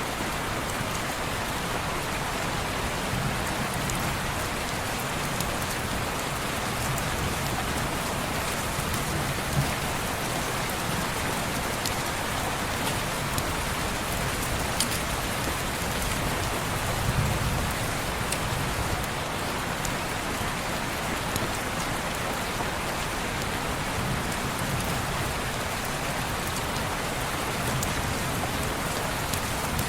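Steady rain falling on window glass, an even hiss with scattered sharp ticks of drops. There are a few soft low rumbles, the strongest about seventeen seconds in.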